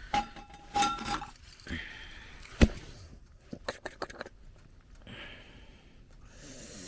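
Cooking utensils clinking and knocking against cookware, with a brief metallic ring near the start and one sharp knock about two and a half seconds in, followed by a quick run of lighter clicks.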